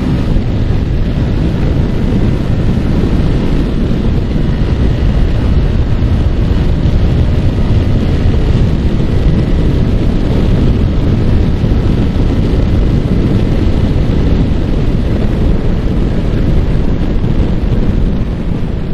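Heavy wind buffeting the microphone of a moving Yamaha R15 motorcycle, with the bike's single-cylinder engine running steadily underneath.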